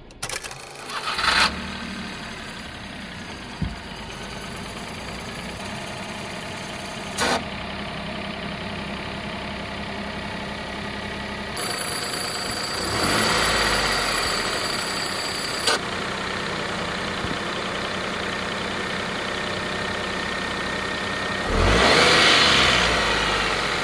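Daihatsu Hijet engine running at idle. It swells louder about thirteen seconds in and again near the end, and a few sharp clicks come in between.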